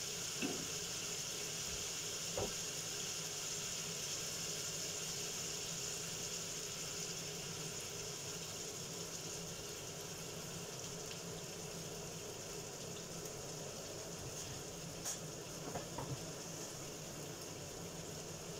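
Chicken pieces sizzling steadily in a frying pan over a gas flame, with a few light knocks of a spatula against the pan.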